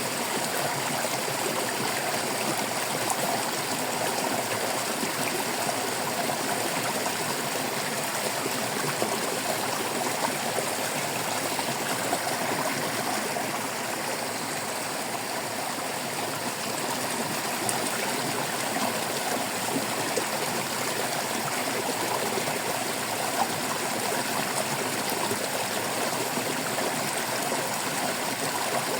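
Shallow water babbling and splashing over stones in a stream, a steady, continuous flow.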